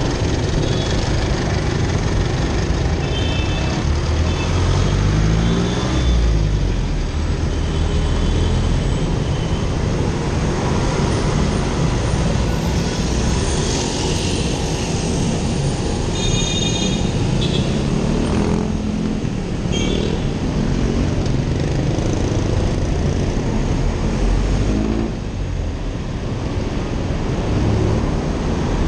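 Motorcycle engine running in slow city traffic, its pitch rising a few times as it speeds up and falling back, over steady road and traffic noise. A few short high tones sound about 3 seconds in and again around the middle.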